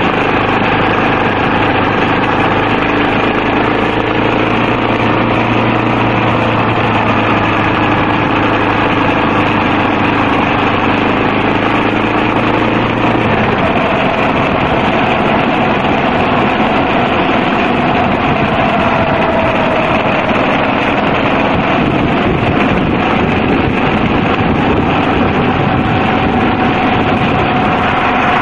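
Yamaha XT250 trail bike's single-cylinder four-stroke engine running under way, mixed with steady wind and road noise. About halfway through, a low steady hum drops out and the engine note changes.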